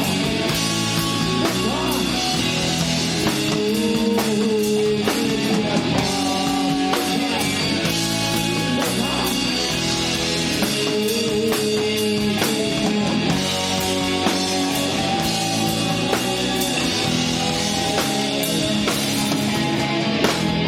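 A rock band playing live: guitar over a steady beat on a drum kit.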